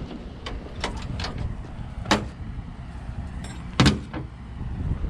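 Scrap and junk being handled and loaded: a series of light knocks and clicks, with two louder bangs about two seconds in and just under four seconds in, over a low rumble.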